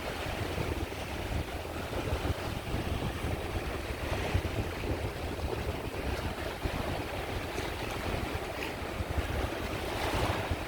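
Sea waves breaking and washing on the shore, a steady surf rush with deep low rumble, swelling louder near the end; wind buffets the microphone.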